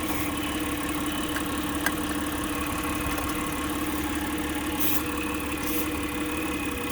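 Mitsubishi Pajero V6 engine idling steadily. Near the end come two short hisses of a spray can, sprayed around the intake manifold to find where the manifold is leaking.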